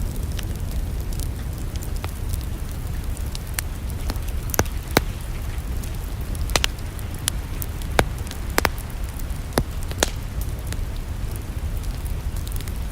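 Wood fire in a fireplace crackling, with a dozen or so irregular sharp pops over a steady low rumble.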